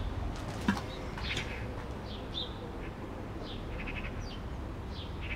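Small birds chirping in short, high calls scattered throughout, over a steady low background hum; a single brief knock sounds under a second in.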